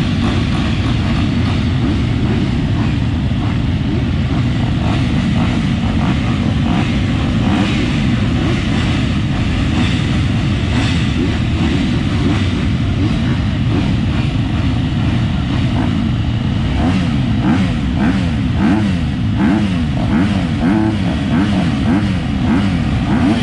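Dirt bike engines running loud and continuously, with several overlapping engine notes rising and falling in pitch as the bikes rev up and back off.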